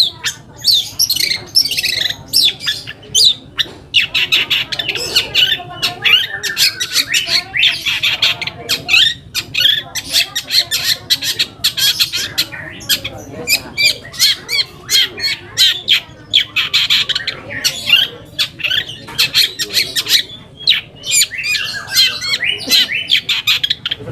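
Long-tailed shrike (cendet) singing a harsh, rapid chattering song of short scratchy notes, delivered in a dense, nearly unbroken string.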